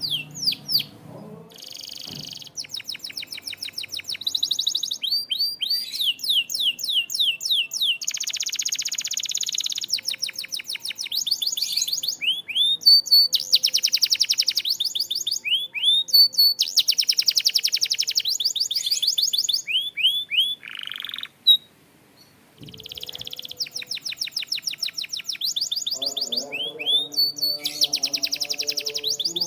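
Canary singing a long, varied song of rapid trills and runs of quickly repeated rising notes, with a brief pause about three-quarters of the way through.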